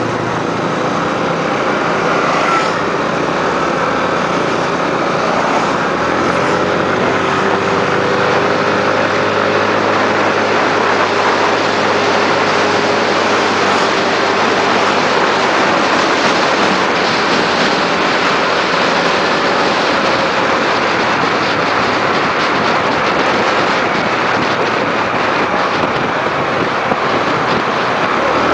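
Motorbike riding along, its engine note rising and falling slowly under a loud, steady rush of noise.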